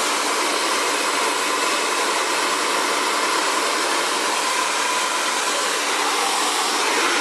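Xtava Allure 2200-watt ionic ceramic hair dryer running steadily while blow-drying hair: a continuous rush of air with a faint steady whine.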